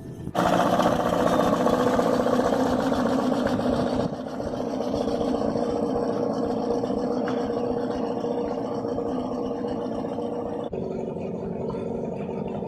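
An engine running steadily, with a low, even hum. It starts suddenly and changes abruptly twice, as at cuts between clips.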